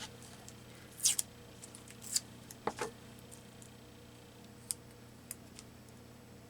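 A few short rustles and clicks of paper and tape being handled, the loudest in the first three seconds, then two faint ticks.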